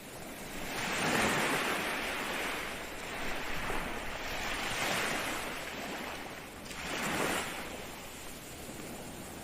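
Ocean waves breaking and washing on the shore, a steady hiss of surf that swells three times: strongest just over a second in, again around four to five seconds, and briefly near seven seconds.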